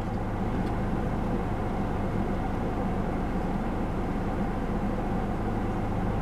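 Steady low hum and rushing air inside a parked car's cabin, from its idling engine and ventilation fan.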